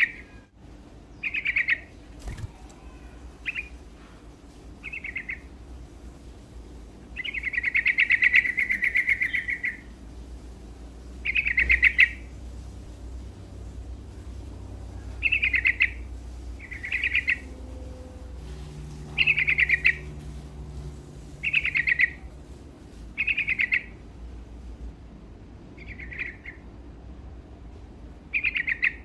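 Yellow-vented bulbul (trucuk) singing: short, bubbly phrases repeated every one to two seconds, with one longer, chattering phrase about seven seconds in. A low steady hum runs underneath.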